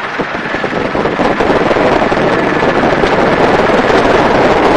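Helicopter in flight, heard from its open gun door: a steady rush of rotor and engine noise mixed with wind buffeting the microphone, growing a little louder over the first two seconds.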